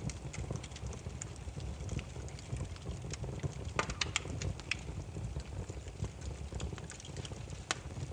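Wood fire burning, with irregular sharp crackles and pops over a low steady rumble of the flames; the loudest pops come about halfway through and near the end.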